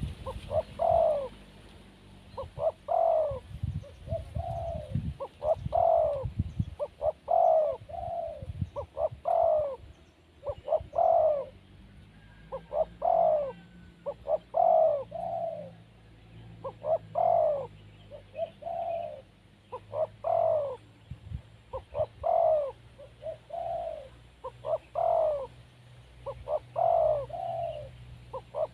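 Spotted dove cooing: a phrase of a few short notes ending in a longer swelling coo, repeated about every two seconds.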